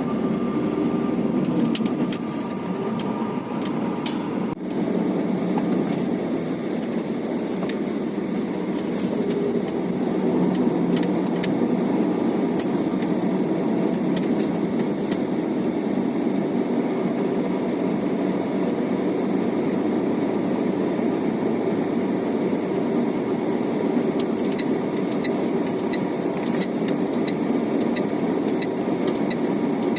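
Heavy truck running on the road, heard from inside the cab: a steady low engine and road drone. A light, evenly spaced ticking, a little under two a second, joins near the end.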